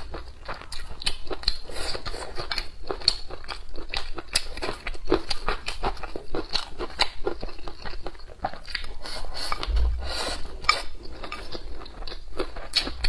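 Close-miked chewing of dried green beans stir-fried with cured pork and rice: wet, irregular crunching and smacking, a quick stream of small clicks.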